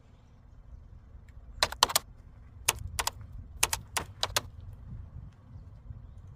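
A run of about ten sharp clicks and clinks in a few short clusters, like small hard objects being handled, over a faint low rumble.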